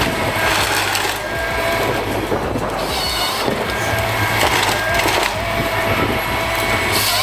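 A forestry machine working timber: its engine runs steadily while wood cracks and splinters in repeated surges.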